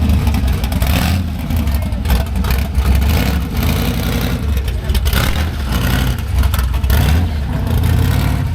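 A car engine running nearby with a steady low rumble.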